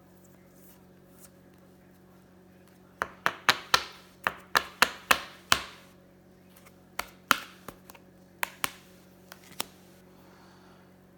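A quick run of about ten sharp taps or knocks on a hard surface, then a few more spaced out: the sound of handling the cards and the box on a tabletop.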